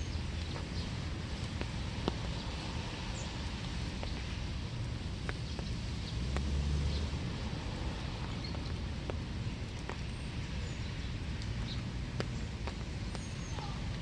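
Steady winter rain, with scattered drops ticking and tapping close by and a few faint, short bird chirps. A low rumble swells briefly about halfway through.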